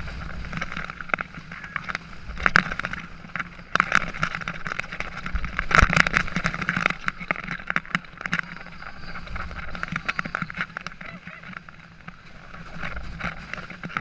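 Tonnerre de Zeus wooden roller coaster train running along its track, with irregular sharp clacks and rattles over a steady rumble.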